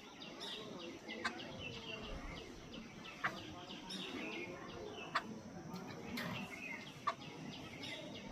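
Jungle babblers chattering: a continuous stream of short, harsh chirping calls from several birds, with a sharp, louder click about every two seconds.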